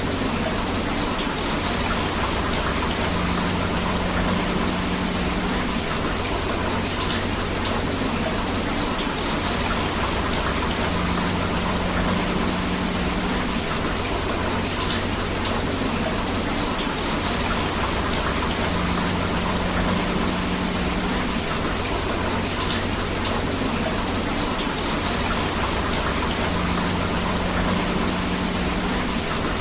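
Steady rain with flowing river water, an even dense hiss of falling and running water. A faint low hum comes and goes about every eight seconds.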